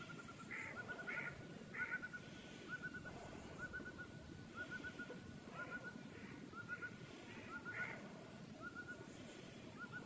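Birds calling at dawn: a steady series of short chirps in quick groups of three or four, about one group a second. Among them are a few louder, harsher calls, three in quick succession near the start and one more near the end.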